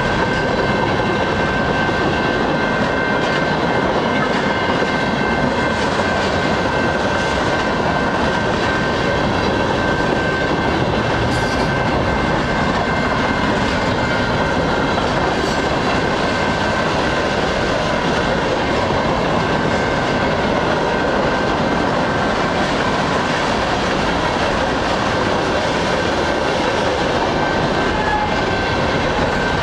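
Cars of a long train rolling past steadily: a continuous rush and rumble of wheels on rail, with a thin, steady high-pitched tone running through it.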